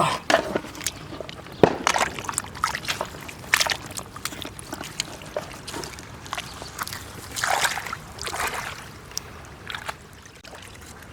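Shallow water sloshing and splashing in irregular bursts, with sharp knocks mixed in, as someone moves about in it.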